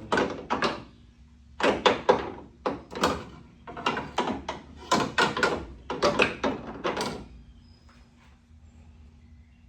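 Rapid runs of knocks and clatters from metal tools and car parts being handled, in quick groups for about seven seconds. They stop, leaving a faint steady hum.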